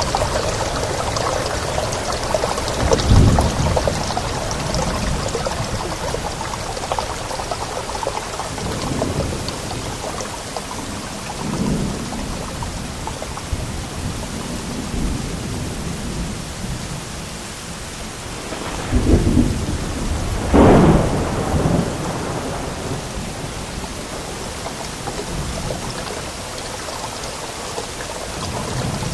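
Steady heavy rain, with rolls of thunder rumbling through it: a short one about three seconds in, a faint one near the middle, and a louder double roll about two-thirds of the way through.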